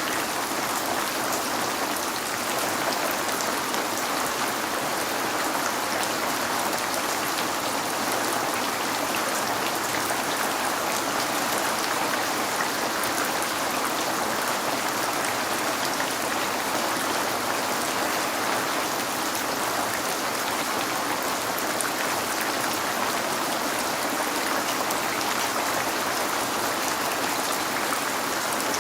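Steady rain falling, a constant even hiss with faint scattered drop ticks, rain striking a window pane.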